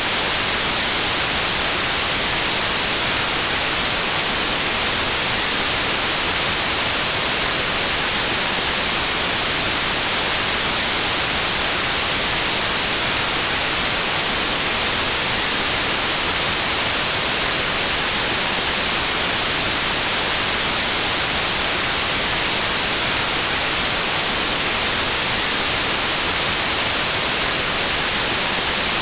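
Steady electronic white noise: an even hiss, brightest in the highs, with no change or events.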